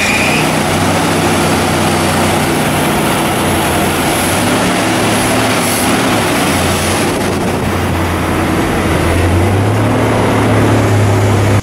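Dodge Charger's V8 engine running steadily with a low hum, its revs and level rising a little near the end.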